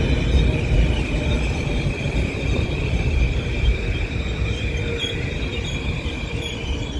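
Metro-North commuter train running past with a heavy low rumble and a steady high-pitched whine over it, easing off slightly toward the end.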